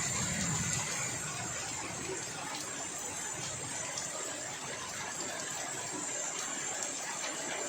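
Steady rush of floodwater pouring and flowing, an even noise throughout.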